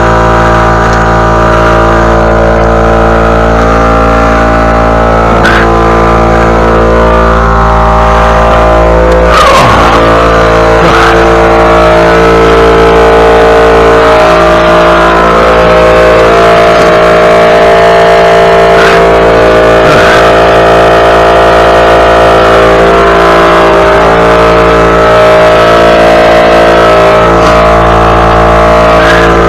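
Small gasoline engine running loud and steady at constant speed, with a few faint clicks over it.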